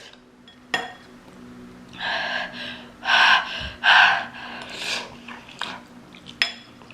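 A woman huffing and gasping air through her mouth in four breathy bursts, a reaction to the burn of extremely spicy fire noodles. A few sharp clicks come before and after the breaths.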